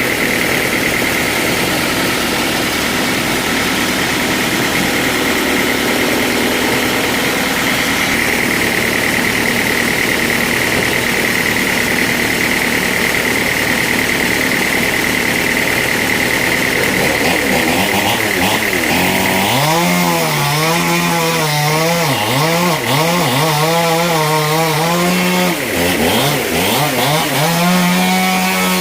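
Two-stroke chainsaw running at high revs, likely cutting a log, with a steady high-pitched whine. From about two-thirds of the way through, its engine pitch wavers up and down as the revs rise and fall.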